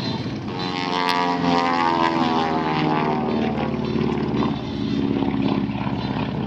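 Propeller airplane's piston engine flying past, its note rising in loudness and then falling in pitch as it goes by.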